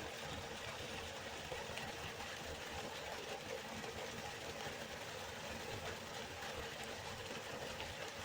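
Waterfall rushing steadily, an even roar of falling water with a low rumble beneath.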